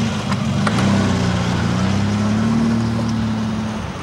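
Small car's engine running, then pulling away: the engine note rises about a second in as it drives off and stops shortly before the end.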